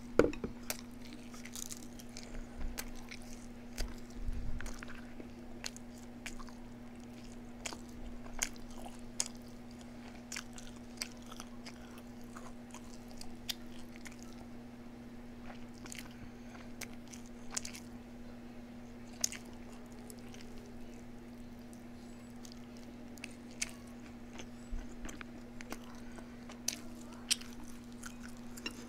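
Close-up eating sounds: biting and chewing, with short sharp crunches coming irregularly every second or so, over a steady low hum.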